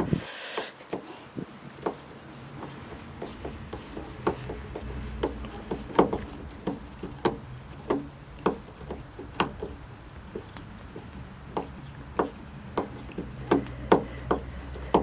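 Screwdriver working at the small screws of a car's interior trim strip: irregular sharp clicks and knocks, about two a second, as a screw too tight to turn by hand is worked. A low steady hum comes in about four seconds in.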